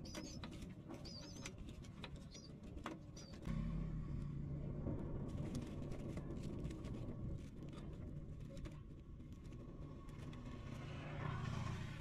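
A few high, thin, wavering bird chirps in the first three seconds, over light rustling clicks. About three and a half seconds in, a low rumble sets in and continues.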